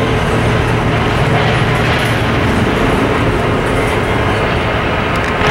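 A train rolling past close by: a loud, steady rumble and rattle of railcars on the track.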